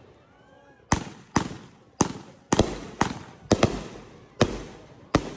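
Fireworks going off: about ten sharp bangs in quick, uneven succession starting about a second in, each trailing off in an echoing decay.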